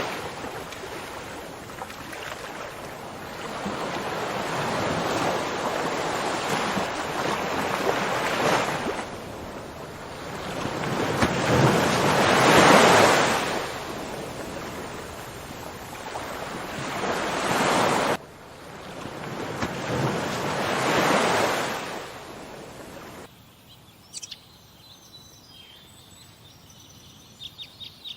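Sea waves washing onto a shore, each surge swelling and fading every few seconds, with wind. Near the end this gives way to a quiet background with a few short bird chirps.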